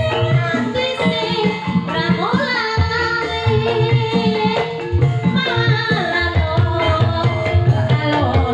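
Live ebeg dangdut-kreasi music played through a sound system: hand drums keep a steady beat under gamelan-style pitched notes, and a sung melody with sliding, wavering ornaments comes in about two seconds in.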